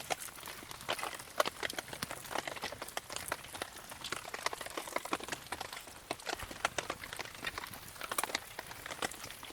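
Campfire in the rain: irregular sharp crackles and ticks of burning wood and falling raindrops over a faint steady hiss.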